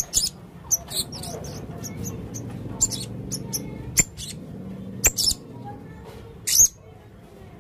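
Male blue-crowned hanging parrot calling: short, shrill, very high-pitched chirps at irregular intervals, some in quick pairs, with the loudest near the end.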